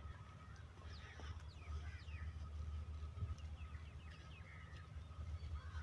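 Faint bird calls: scattered short chirps, each sliding down in pitch, over a low steady rumble.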